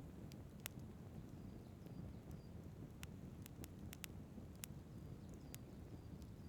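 Wood fire crackling with sharp, irregular pops over a faint, low, steady rumble.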